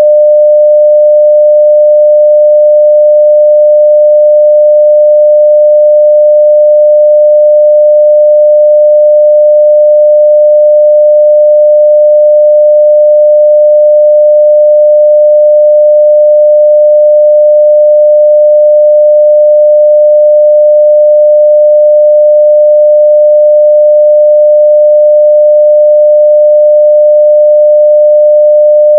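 A steady 600 Hz sine-wave test tone at full level, a single unbroken pure tone.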